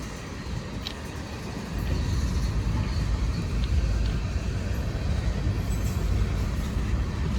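Freight train cars rolling past, a steady low rumble with a few faint clicks, getting louder about two seconds in.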